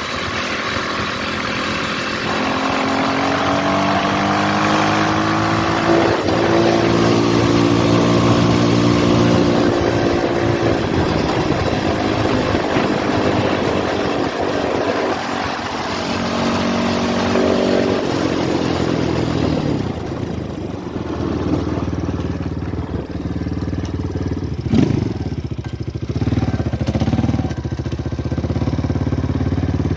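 RVM CZ 250T four-stroke enduro motorcycle engine being ridden: the revs climb and level off twice as it accelerates, then it settles to a lower, steadier running note. A single sharp knock comes a little over three-quarters of the way through.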